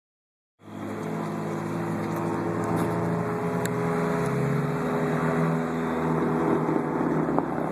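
Nissan 200SX engine running steadily through a straight-piped exhaust, a low even drone with no revving. It comes in abruptly about half a second in.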